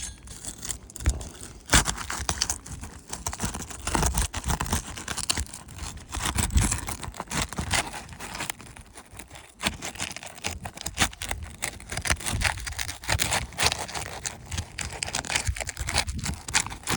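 Roofing hatchet scraping and prying under asphalt shingles to break their seal, in irregular scrapes and knocks, with the shingle tearing. The shingles are too brittle to unseal and the hatchet busts through them.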